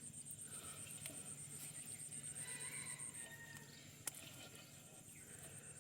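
An insect trilling in fast, even, high-pitched pulses. It stops about three seconds in and starts again near the end. A single sharp click comes about four seconds in, over a faint steady low hum.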